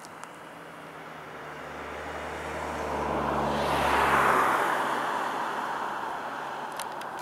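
A road vehicle passes by, its engine and tyre noise growing louder, loudest about four seconds in, then fading away.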